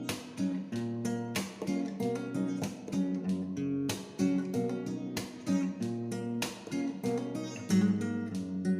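Music: an acoustic guitar playing plucked and strummed chords, with a new attack every fraction of a second.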